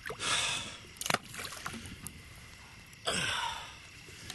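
Water splashing and sloshing as duck decoys are swished clean in muddy marsh water, in two bursts, with a sharp knock about a second in.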